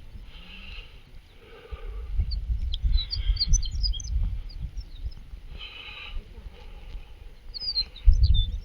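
Small birds chirping in quick high calls, in two bursts about three seconds in and again near the end. Under them is an uneven low rumble that grows loudest near the end.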